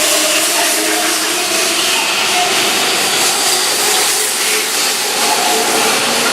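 Keihan electric train running by, a loud steady rush of wheel and running noise with faint steady tones from the motors.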